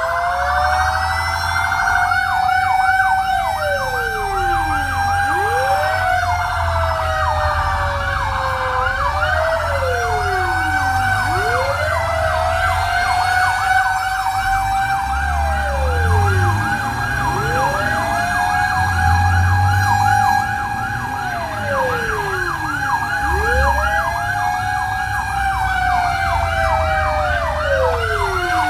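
Fire truck sirens sounding together: a rapid yelp repeating steadily, over a slower wail that drops low and climbs back up every five or six seconds, with a low vehicle rumble underneath.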